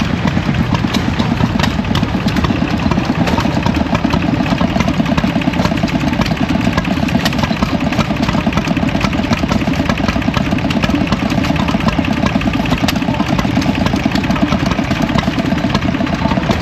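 An engine running steadily close by, with a fast, even beat that doesn't change.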